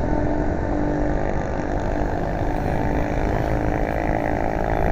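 Road traffic: a motor vehicle's engine running close by, its hum growing stronger over the last couple of seconds, over a rough, steady low rumble.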